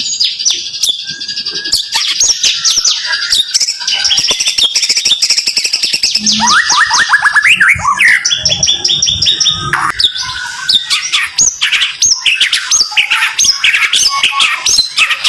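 A white-rumped shama (murai batu) singing fast 'tembakan' bursts: rapid runs of the same whistled note repeated many times, mixed with sweeping chirps and sharp clicking notes, with hardly a pause.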